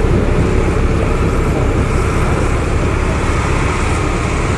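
Steady low rumble of a heavy engine running at a constant pace, with no distinct knocks or changes.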